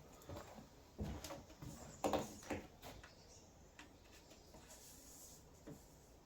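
Scattered light knocks, taps and rustles of hands working inside a vehicle body while fitting sound-deadening material, loudest in two short clusters about one and two seconds in, with a few single clicks after.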